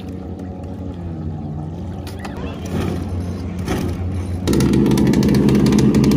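Pro Boat Zelos RC boat's engine: a low running hum, then the engine noise jumps suddenly much louder about four and a half seconds in and keeps running steadily as the boat is run at low throttle.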